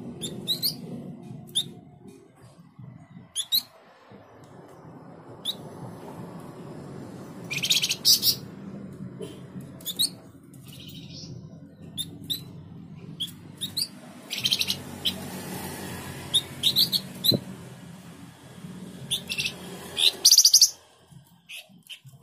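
Caged flamboyan, a small brown babbler kept as a songbird, calling in short sharp chirps and quick upswept whistles at uneven intervals. A few harsh buzzy chatters come in, the loudest near the end, over a steady low rumble.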